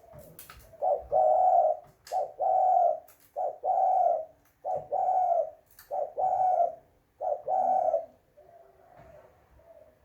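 Spotted dove (terkukur) cooing: six two-part coos, each a short note followed by a longer one, about one every 1.2 seconds, stopping about eight seconds in.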